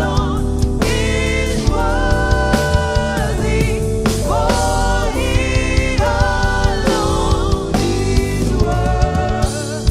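Gospel worship song: singers holding long, wavering notes over a band with drums keeping a steady beat.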